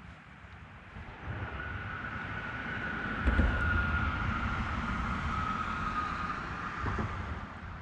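A passing vehicle: a low rumble builds for a few seconds and then fades, carrying a steady whine that slowly drops in pitch as it goes by.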